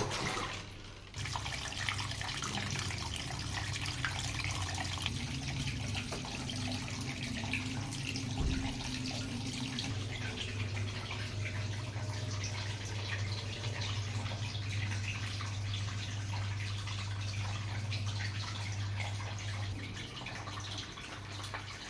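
Sharp washing machine running water through its tub, with a steady electrical hum under the sound of the flowing water; it starts abruptly about a second in.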